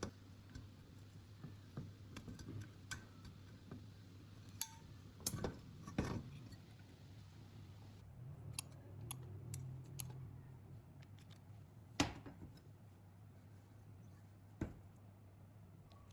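Scattered light clicks and knocks of small parts and tools being handled, over a low steady hum, with a sharper knock about twelve seconds in.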